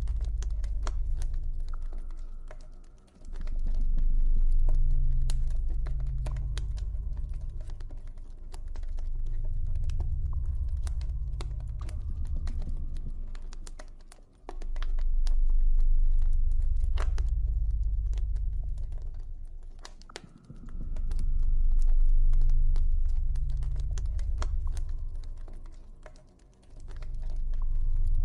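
Campfire crackling with frequent sharp pops and ticks, over a deep ambient drone that swells and fades in slow waves every several seconds.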